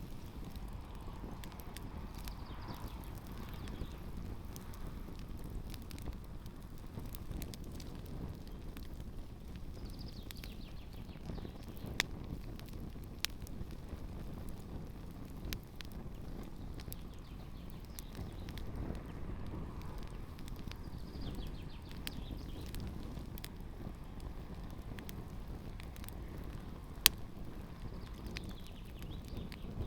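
Campfire burning shoes, a steady low rush of flame with a few scattered sharp pops and crackles, the loudest pop near the end.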